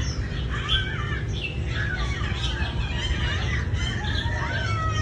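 Many birds calling at once, a dense mix of short overlapping chirps and squawks, over a steady low rumble.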